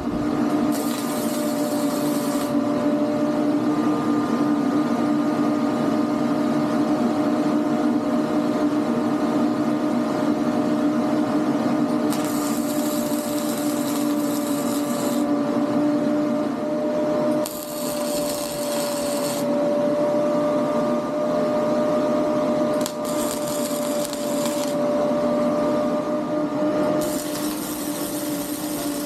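Electric power tool running steadily, with several stretches of a few seconds each where a harsher high hiss joins in as it bites into the work.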